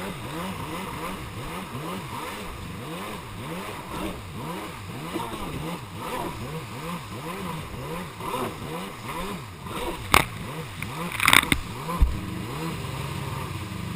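Jet ski engine revving up and down over and over, its pitch swinging about one and a half times a second as it runs through river rapids. A few sharp, loud hits come in near the end.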